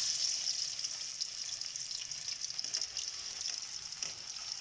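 Raw potato strips coated in cornflour and spices sizzling in hot oil in a metal pan, the vigorous first frying right after they go in: a steady high hiss full of fine crackles, easing slightly as it goes.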